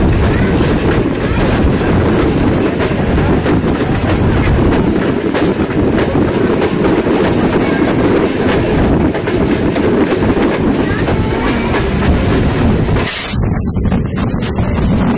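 Passenger railroad coach running along the track: a loud, steady rumble of wheels on rail, heard through an open coach window.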